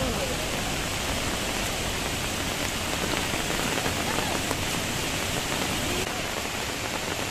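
Steady rush of heavy water pouring down in full monsoon flow, a torrent at the base of a waterfall.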